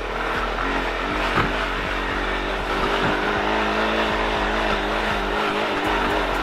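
Quad (ATV) engine being ridden hard: its pitch rises and falls several times in the first few seconds, then holds steadier under load.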